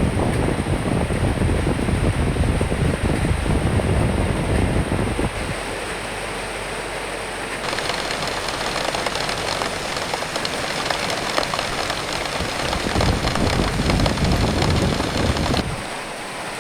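Rain and wind: a steady hiss of rain with a low, gusting wind rumble, strongest in the first five seconds and again from about thirteen seconds in.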